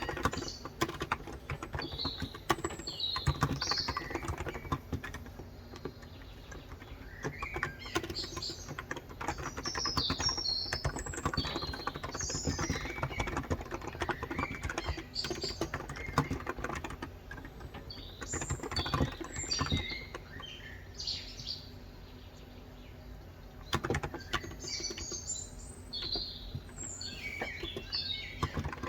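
Typing on a COX Endeavour electrostatic capacitive (Topre-style) tenkeyless keyboard with 35 g switches: a steady run of key clacks that pauses for a couple of seconds about three-quarters of the way in. Birds chirp in the background throughout.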